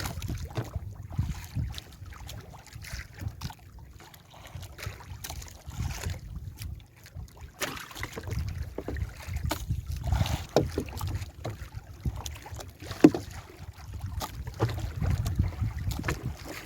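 Wind rumbling on the microphone and water sloshing against a small fishing boat in a choppy sea, with scattered knocks and splashes. One sharp knock comes about thirteen seconds in.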